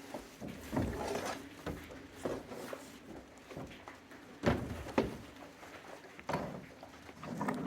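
Irregular knocks and thumps from plywood sheets being handled and set in place, with the two loudest knocks about halfway through.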